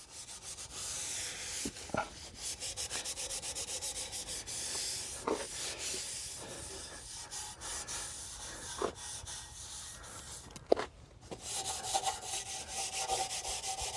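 Hand scuff-sanding of chrome trim to rough up the surface for paint adhesion: quick back-and-forth rubbing strokes, about four a second, with a short pause near the end and a few light knocks.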